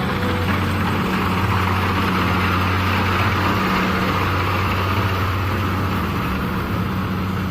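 Kubota DC70 PLUS combine harvester's diesel engine running steadily, with a broad mechanical whir over the low engine note.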